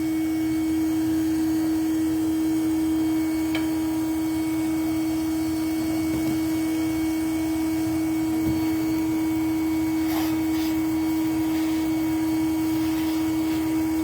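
Steady electric motor hum holding one unchanging pitch, with a few faint ticks over it.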